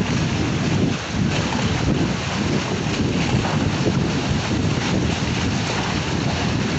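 Strong wind buffeting the microphone in a steady, loud rumble, over the sound of choppy water.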